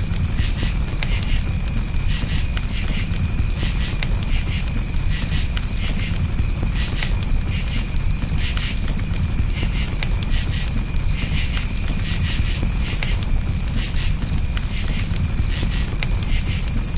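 Campfire crackling with scattered sharp pops over a low rumble, with crickets chirping steadily in repeated high pulses.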